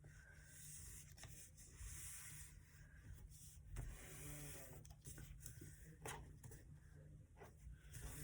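Faint rustling and rubbing of a sheet of paper being folded and creased by hand, with a few soft ticks.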